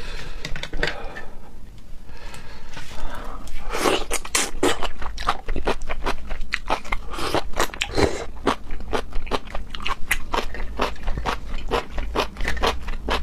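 A person chewing and biting food close to the microphone: a quick, steady run of wet clicks and crunches that grows busier a few seconds in.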